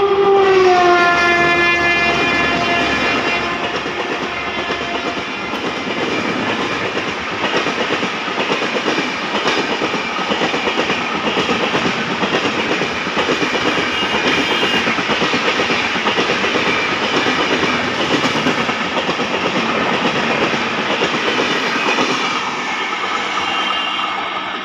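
Indian Railways express train passing at high speed behind an electric locomotive. The locomotive's horn drops in pitch as it passes about a second in and fades within a few seconds. Then the coaches rush by with rapid wheel clatter over the rail joints, easing off near the end.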